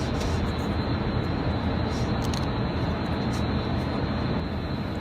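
Steady low rumble of vehicle noise with a hiss over it and a few faint light clicks.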